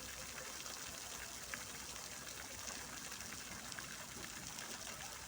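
Fountain water splashing and falling steadily, an even hiss with small scattered drips and splashes.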